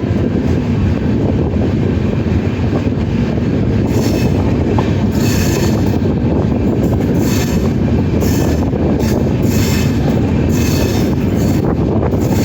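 Passenger train moving on the rails: a steady, loud rumble of coaches and wheels, with repeated high-pitched bursts from about four seconds in.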